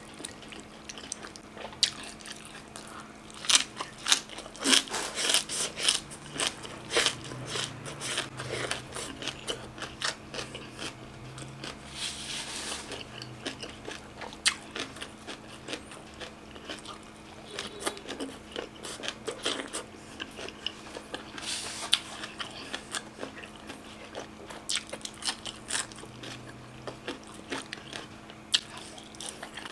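Close-miked crunching and chewing of crisp vegetable food, green mango salad and boiled fiddlehead fern: many sharp crunchy bites. The crunching comes thickest a few seconds in and again about two-thirds of the way through, over a faint steady hum.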